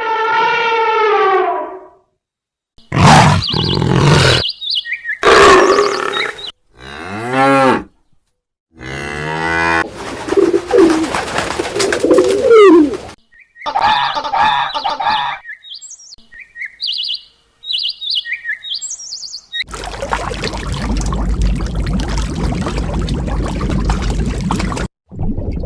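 A string of different animal calls, each cut off abruptly: several pitched calls with falling or gliding pitch, then short high chirps, then a steady rushing noise over the last few seconds.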